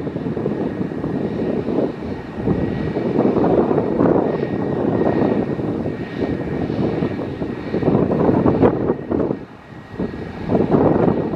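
Loud, uneven aircraft engine noise with a faint steady high whine, dipping briefly about nine and a half seconds in.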